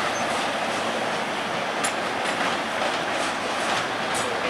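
Three-car Union Pearson Express diesel multiple unit running over station tracks and switches with a steady rumble of engine and wheels. A couple of sharp clicks come from the rails, about two seconds in and again near the end.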